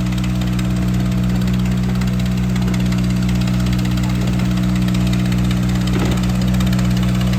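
Tractor diesel engine running steadily and loud, at an even, unchanging speed.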